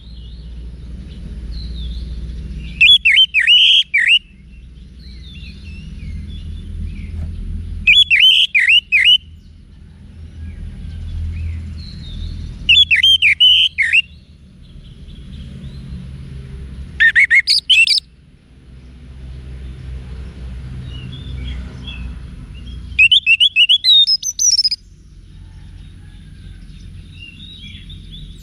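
Orange-headed thrush (anis merah) singing: five loud, quick phrases of whistled notes, each about a second long and spaced about five seconds apart. A low rumble of background noise fills the gaps between them.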